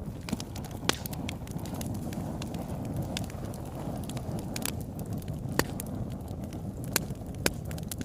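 Wood fire burning in a fireplace: a steady low rush of flames with scattered crackles and sharp pops, the loudest pops about a second in and near the end.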